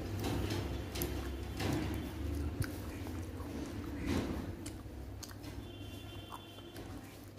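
Close-miked chewing of rice and chicken curry, with fingers mixing rice on a glass plate giving scattered soft clicks over a steady low hum. A few faint high tones come in near the end.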